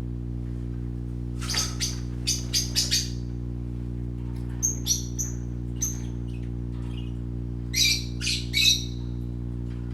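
Small pet parrots squawking and chirping: three clusters of short, harsh calls with a few thin high chirps between them, over a steady low electrical hum.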